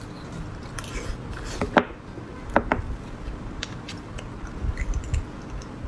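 Close-miked eating of beef bone marrow and fatty meat: chewing with wet smacks and a few short squeaky sucking sounds, plus scattered light clicks.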